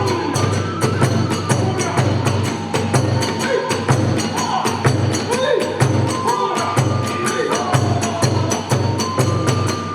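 Kagura music: a drum beating a fast, steady rhythm with small hand cymbals clashing on the beats, and a pitched melody line gliding above.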